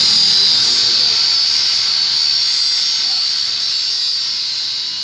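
Gas hissing out under pressure: a loud, steady high hiss that slowly fades over the few seconds.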